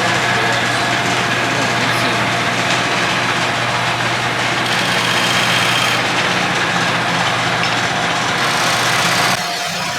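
Wood lathe motor running with a steady hum while a turning tool cuts into a hard burl bowl blank, giving a loud, even scraping hiss. The cutting stops about nine seconds in and the motor hum carries on.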